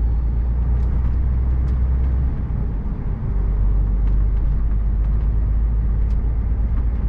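HGV lorry's diesel engine running as the truck drives through town, heard from inside the cab as a steady low rumble that dips briefly about two and a half seconds in.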